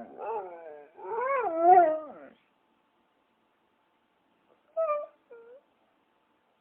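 A dog whining in drawn-out, wavering cries that rise and fall for about two seconds, then two short whimpers after a pause.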